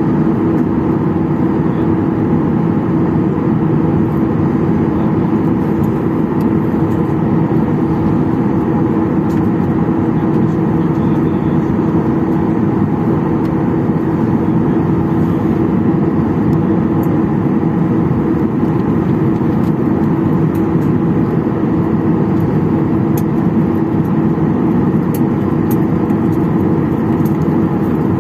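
Steady hum of the parked Boeing 737-800's cabin air system, holding a constant mid-pitched tone. A few faint clicks are heard over it.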